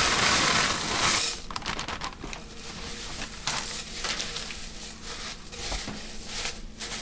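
Dry, crispy chow mein noodles tipped from a plastic bag into a bowl: a loud rush of rustling for about the first second, then scattered small crackles and clicks as the noodles settle and the bag crinkles.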